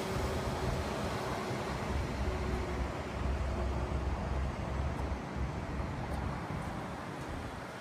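1977 Cadillac Eldorado Biarritz's V8 running with a steady low rumble and an even hiss of road or wind noise, easing off slightly near the end.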